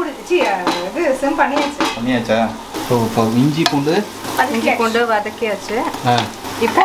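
Ginger-garlic paste and onions sizzling in hot oil in a biryani pot while being stirred.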